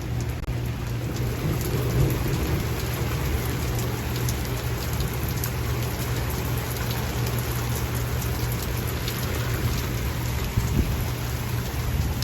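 Rain falling steadily: a dense, even hiss with scattered sharp drop ticks, over a steady low rumble.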